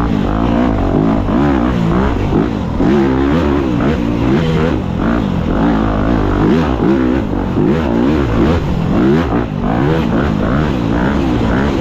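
Dirt bike engine revving up and falling back again and again as the throttle is worked, its pitch rising and dropping roughly every second.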